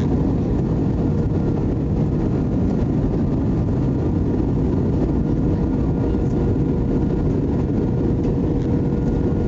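Steady cabin noise of an Airbus A320-200 in flight on approach: a constant, even rumble of engines and airflow, with a faint steady hum held throughout.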